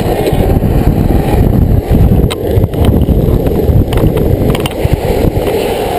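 Steady, loud rumble of wheels rolling on pavement, with wind on the microphone and a few sharp clicks.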